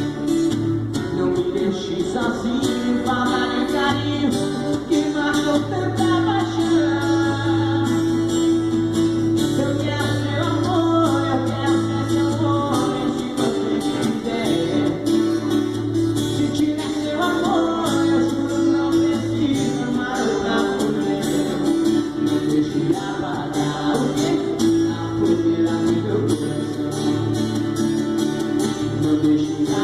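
A sertanejo song performed live by a male vocal duo, singing over instrumental backing that carries on without a break.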